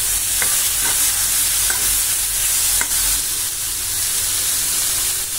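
Chopped carrots sizzling in hot oil in a kadai while a steel spoon stirs them, with a few light ticks of the spoon against the pan.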